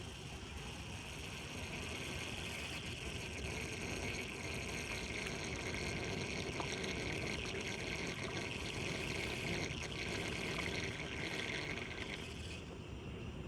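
Floodwater pouring steadily down an unclogged street storm drain, a continuous rushing and gurgling of water.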